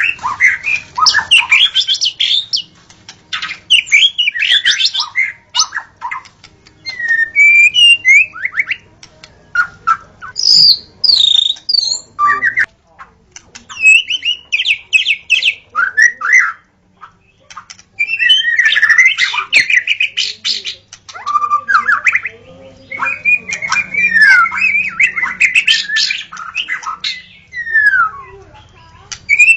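White-rumped shama (murai batu) singing: a loud, varied run of whistled phrases, pitch glides and rapid trills, delivered in bursts with brief pauses between them.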